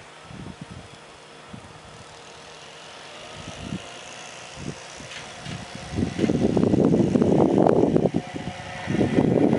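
Class E10 electric locomotive approaching and passing, growing louder, with heavy, uneven wheel-and-rail rumble and clatter from about six seconds in.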